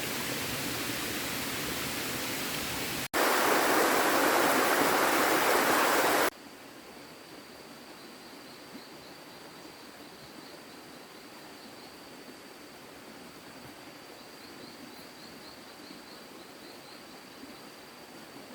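Steady rushing noise with no clear events. It jumps sharply louder about three seconds in, then drops abruptly to a faint hiss with a thin high tone about six seconds in, and stays faint after that.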